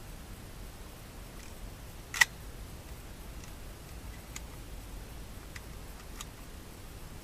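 A single sharp mechanical click about two seconds in, followed by a few faint ticks.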